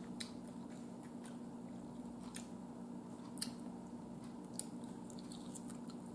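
Close mouth sounds of eating barbecued meat: scattered wet smacks and chewing clicks, the sharpest a little over three seconds in and again near four and a half seconds, over a steady low hum.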